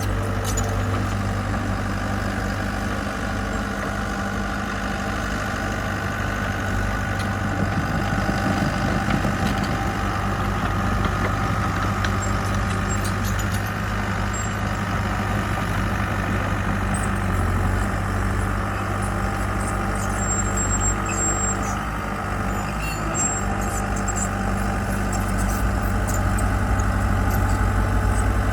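Diesel engine of heavy construction equipment running steadily, with a low, even hum.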